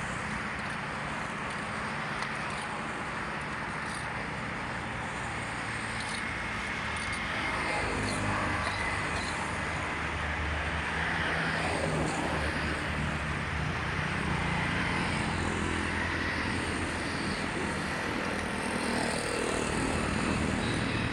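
A steady hiss of rain and running water, with the low rumble of a motor vehicle's engine growing louder about eight seconds in and staying up through most of the rest.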